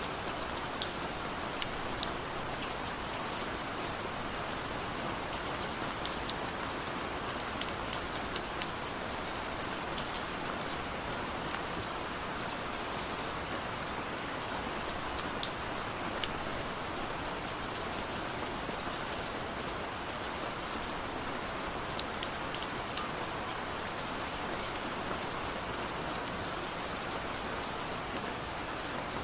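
Steady rain falling, an even hiss with scattered sharp drop hits on a surface and no thunder.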